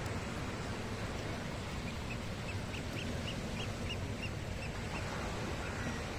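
Steady wash of gentle surf on the shore, with a bird calling a quick run of about a dozen short, high notes from about two seconds in until about five seconds in.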